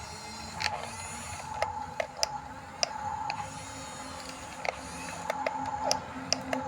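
Radio-controlled bulldozer running: a steady electric motor and gear whine with irregular clicks and ticks from its drive and tracks.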